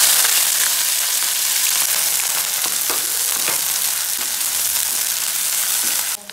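Sliced onions and green chillies sizzling loudly in hot oil in a kadai as they are stirred with a wooden spatula, with a few short scrapes along the way. Near the end the sizzle drops abruptly to a much quieter level.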